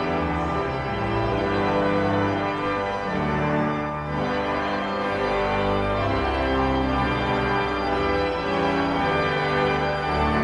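Organ playing sustained full chords that change every second or two, likely the close of a hymn.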